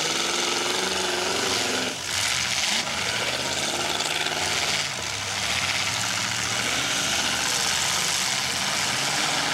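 Several demolition derby cars' engines running and revving unevenly together, their pitches rising and falling as the cars shove into each other, with a short burst of noise about two seconds in.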